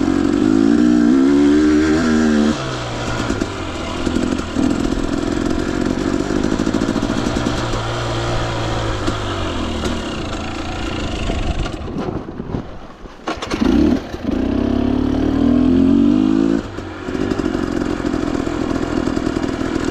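Husqvarna TE 250i two-stroke dirt bike engine revving up and down under the rider's throttle. The pitch climbs about a second in and again near fourteen seconds, and the engine drops off sharply for about a second just past the middle.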